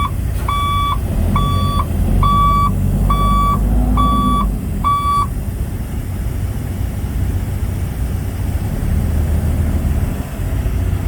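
A semi truck's reversing alarm beeping about once a second over the truck's running diesel engine as it backs up. The beeping stops about five seconds in, while the engine keeps running.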